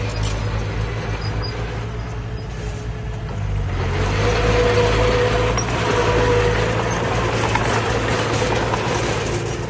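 Heavy diesel earthmoving machinery running steadily. From about four seconds in it grows louder and more rushing, with a steady whine over it, then eases near the end.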